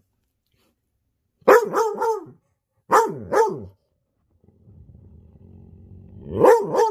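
A dog barking in quick bursts: three barks, then two, then after a pause two more, each bark dropping in pitch. A faint low rumble comes in under the last barks. The barking is the sound of a dog unhappy with the person filming it.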